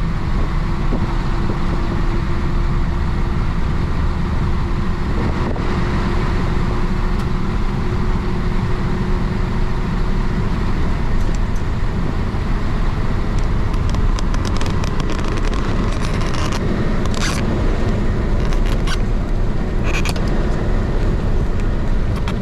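1966 Isuzu BXD30 bonnet bus's DA640 six-cylinder diesel engine running steadily while the bus is under way. A scatter of sharp clicks and knocks sounds in the second half.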